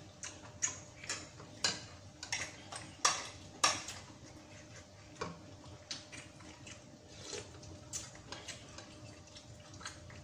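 Metal spoons and forks clinking and scraping against ceramic soup bowls and plates as people eat, in irregular separate clicks, two of them louder about three and three and a half seconds in.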